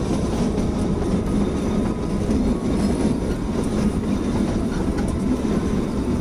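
Kalka–Shimla narrow-gauge toy train running steadily, a low rumble of the carriage wheels on the rails heard from the carriage window.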